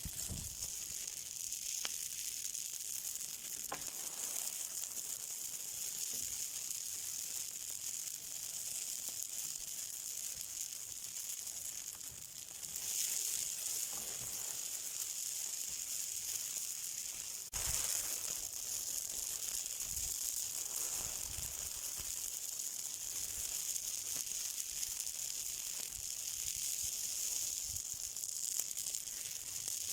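Something burning, with a steady high hiss and an occasional sharp crackle or pop.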